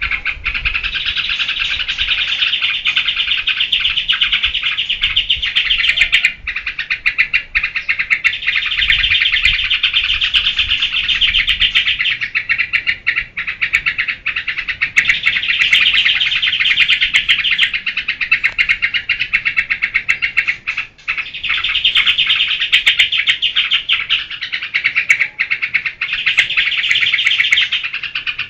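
Yellow-vented bulbul (trucukan) in 'geberan': loud, fast, unbroken chattering calls that run in spells of several seconds, with brief dips between them.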